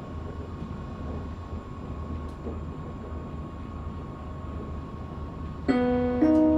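Interior running noise of a Forchbahn narrow-gauge electric train under way: a steady low rumble with a faint steady whine. Near the end a loud two-note on-board chime sounds, a lower note and then a higher one, the gong that comes before a passenger announcement.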